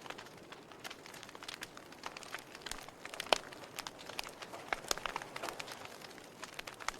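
Fire crackling: irregular sharp pops and snaps over a soft steady hiss, with one louder pop about halfway through.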